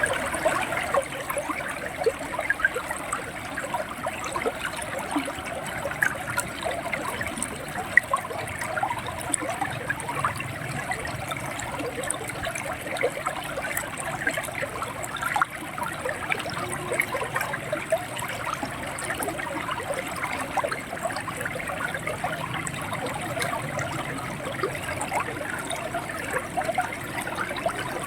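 River water flowing and gurgling over rocks, a steady rush with many small splashes and trickles.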